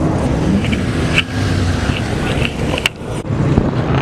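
A car engine running steadily, with two sharp clicks.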